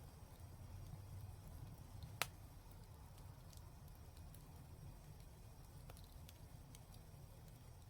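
Fireplace fire crackling faintly, with sparse small pops and one sharp pop about two seconds in, over a low steady rumble.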